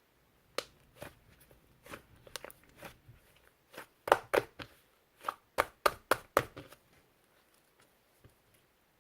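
Slime being squeezed and pressed by hand, giving a run of sharp clicks and popping crackles, densest and loudest from about four to six and a half seconds in.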